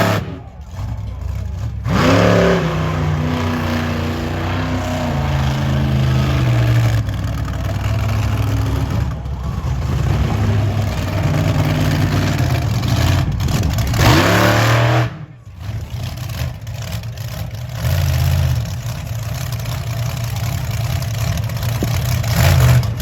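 Monster truck engine revving hard, with its pitch stepping up and down as the throttle works. It drops off throttle sharply twice, once near the start and once about two-thirds of the way in, then picks back up.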